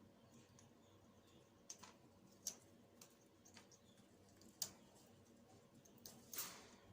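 African grey parrot's beak nibbling and snapping neem leaves: faint, scattered sharp clicks, about six over several seconds, with a brief leafy crackle near the end.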